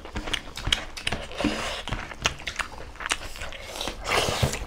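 Close-up chewing and wet mouth smacks from people eating chicken and egg curry with rice by hand, in short, irregular clicks.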